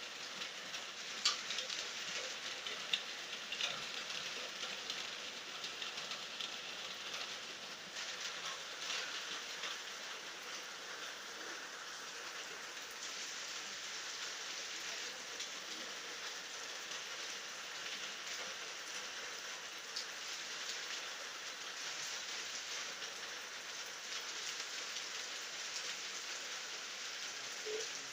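Steady night rain falling on surfaces, a continuous hiss with scattered individual drops ticking, a few sharper drop impacts in the first few seconds.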